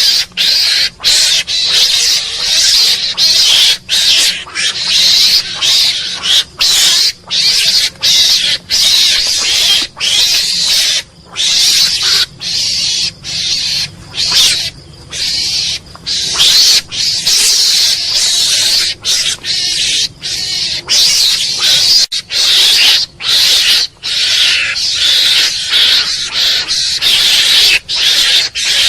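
Mongoose calling in a rapid, unbroken string of high, hissy bursts, each cut by a brief gap.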